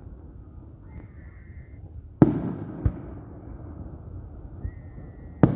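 Two fireworks explosions: a sharp bang about two seconds in and another near the end, each followed by a rolling rumble.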